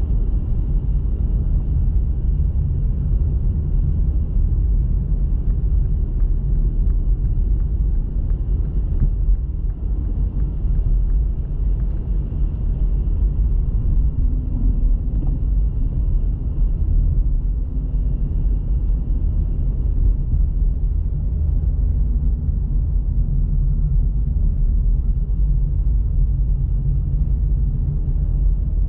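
Steady low rumble of a car being driven, its engine and tyre noise running on without a break.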